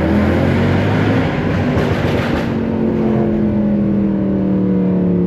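Straight-piped Mercedes-AMG M156 6.2-litre naturally aspirated V8 heard from inside the car's cabin, open-throttle and raspy for about two and a half seconds. Then it settles to a smoother, steady engine note that slowly falls in pitch.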